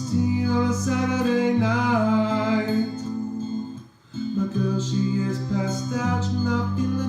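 Looped reggae backing of acoustic guitar and low bass notes, with a melodic line over it that bends in pitch. The loop cuts out for a moment about four seconds in, then starts over.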